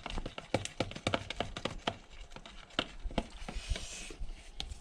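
Irregular light clicks, taps and knocks of hands handling small hard objects, several to a second.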